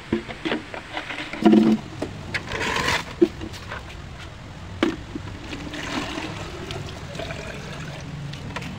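Water being poured off settled clay in a container, splashing and trickling, with several knocks of the container in the first few seconds.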